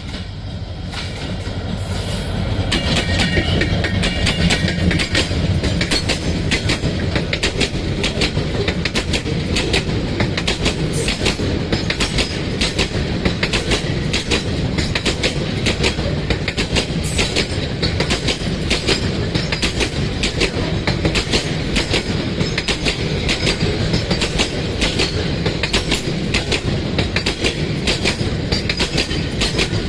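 A train of BTO bogie oil tank wagons, hauled by an EMD GT38AC diesel-electric locomotive, runs through at speed. The sound builds over the first few seconds, then the wheels clatter over the rail joints in a fast, steady rhythm over a continuous rumble.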